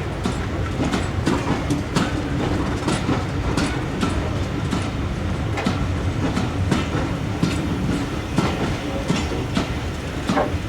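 Railway carriage running on the track: a steady rumble with repeated clickety-clack of the wheels passing over rail joints.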